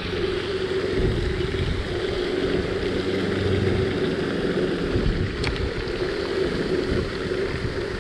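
Wind buffeting the microphone, a steady rumbling rush, with one short sharp tick about five and a half seconds in.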